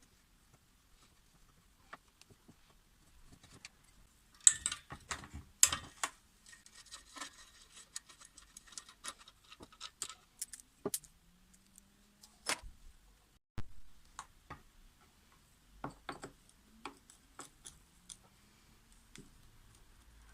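Clicks, clinks and rattles of metal parts and hand tools being handled during repair work on a Husqvarna K770 power cutter, with a dense rattling stretch about four seconds in and two short, faint rising hums later on.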